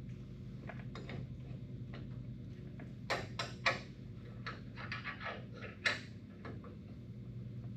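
Hand tools and metal car parts clinking and clicking as they are handled, with a cluster of sharp knocks between about three and six seconds in, over a steady low hum.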